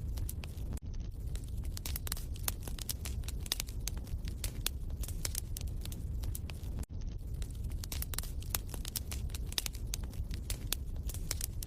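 Wood fire crackling in a fireplace: many irregular sharp pops and snaps over a steady low rumble, with a brief cut in the sound about a second in and again near seven seconds.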